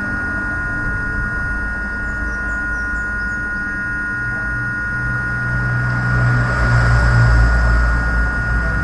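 A steady low hum with a constant high whine over it, swelling louder about six seconds in.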